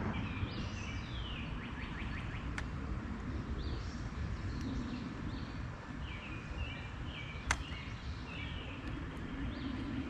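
A songbird singing, short high descending notes repeated in quick phrases, over a steady low outdoor rumble. Two sharp clicks, the louder one about seven and a half seconds in.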